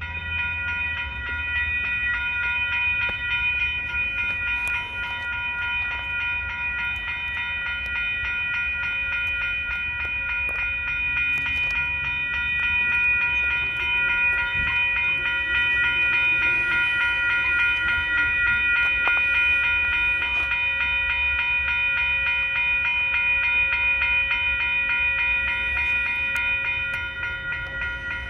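A fast Union Pacific rock train passing, its loaded cars making a low, steady rumble. Over it, the grade-crossing warning bells ring in a steady, unbroken high tone.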